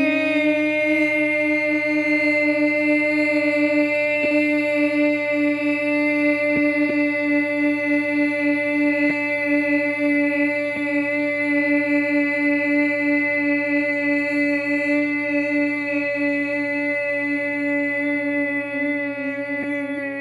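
A voice holding one long, steady sung tone on a single pitch without a break: the kidney healing sound of Chinese healing-sound practice, sung as a vibrating, chant-like note.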